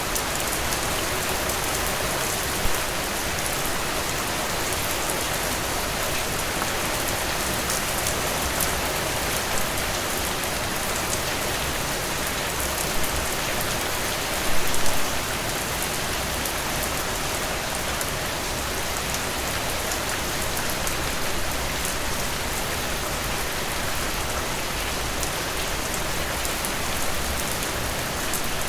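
Heavy rain pouring steadily onto a surface, a dense even hiss of drops with fine crackling ticks, and a brief louder patch of heavier splatter about halfway through.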